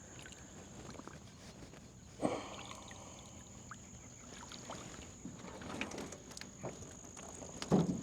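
Bumps and knocks of a redfish being landed with a net and handled in a small boat: a sharp knock about two seconds in and a heavier thump near the end, with scattered small clicks. A steady high-pitched whine runs underneath.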